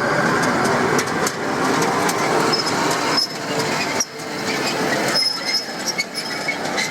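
Manyo Line tram running on its rails: continuous wheel and running noise with scattered clicks and a few brief high squeals, dipping in loudness a few times.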